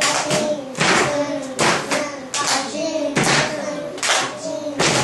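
A class of five- and six-year-olds beating out a rhythm together in unison: hands thumped down ('dosun') and claps ('pachin'), strokes coming roughly in pairs, with the children chanting along aloud.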